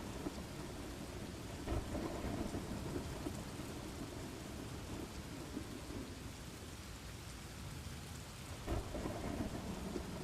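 Steady rain with low rumbles of thunder, swelling about two seconds in and again near the end.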